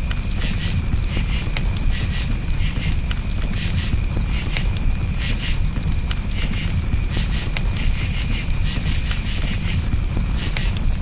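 Crickets chirping in steady, pulsing trills over a campfire's low steady noise, with small sharp crackles from the burning wood.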